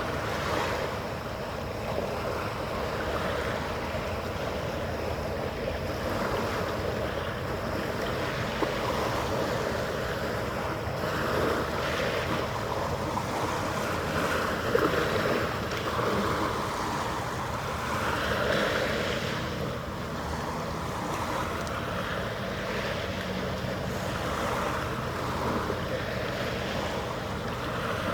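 Wind and water noise that swells and eases every few seconds, with some wind buffeting the microphone, over a faint steady hum.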